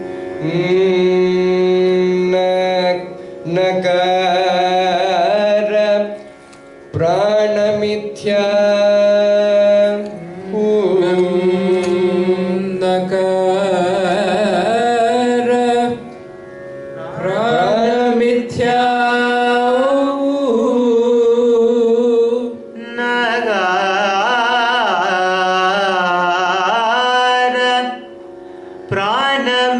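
Carnatic vocal music: a singer's ornamented melodic phrases, each a few seconds long with short breaks between, over a steady drone.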